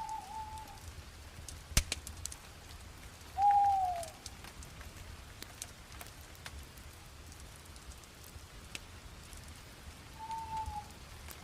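Bonfire crackling with scattered sharp pops, one loud pop about two seconds in. Three short whistles sound over it: one at the start, a louder one falling in pitch about three and a half seconds in, and a fainter one near the end.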